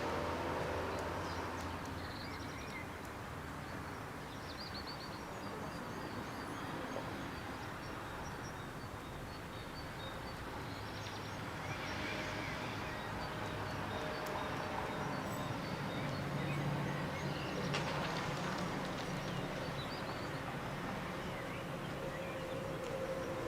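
A steady low background rumble like distant traffic, with faint, short bird chirps now and then and a brief click or two.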